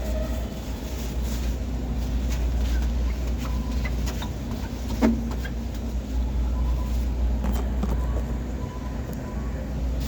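A steady low hum or rumble, with scattered light clicks and one sharper knock about five seconds in.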